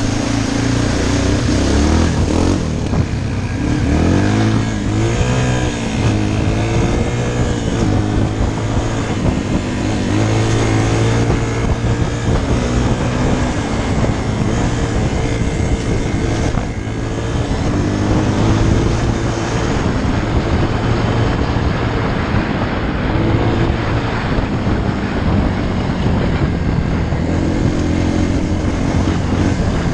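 Dirt bike engine running while riding, its pitch rising and falling several times in the first few seconds as the throttle opens and closes, then running more steadily.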